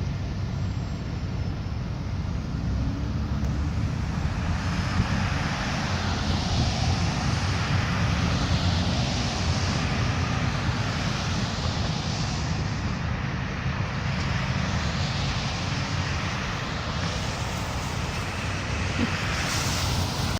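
Engine noise: a steady low rumble with a wide roar over it that grows about four seconds in and then holds.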